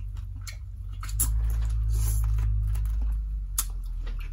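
Eating sounds: wet smacking and small clicks of chewing, over a steady low hum that swells for a couple of seconds in the middle.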